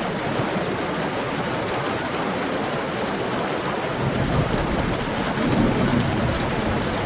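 Heavy rain falling steadily, with a low rumble of thunder swelling about four seconds in and dying away near the end.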